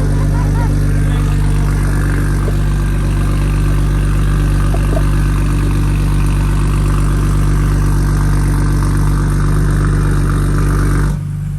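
BMW M240i's turbocharged 3.0-litre inline-six idling steadily through a newly fitted titanium exhaust on its first start-up, with no revving. The sound drops off abruptly just before the end.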